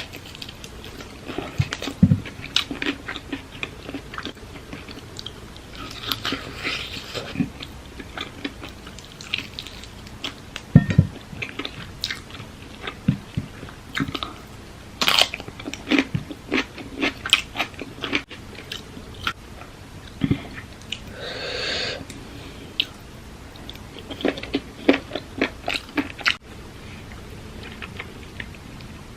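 Close-up chewing and biting of papaya salad with octopus: irregular crunches and wet mouth clicks, with two longer airy noises, one about six seconds in and one past twenty seconds.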